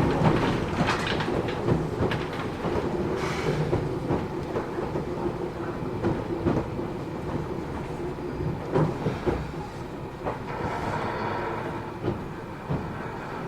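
Running sound inside a Matsumoto Electric Railway 3000 series electric train: wheels clacking over rail joints with irregular knocks over a steady rumble. About ten seconds in, a faint steady whine comes in.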